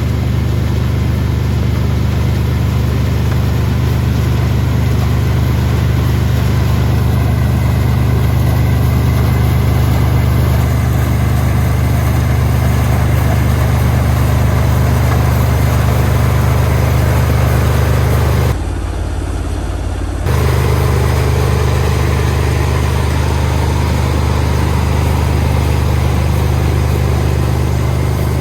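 Combine harvester's diesel engine running steadily with a constant low hum. About two-thirds through, the sound goes muffled for roughly two seconds, then returns.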